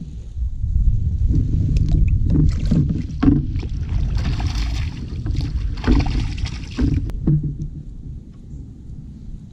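Kayak paddling: a few sharp knocks, then two splashy paddle strokes through the water about a second and a half apart, over a steady low rumble.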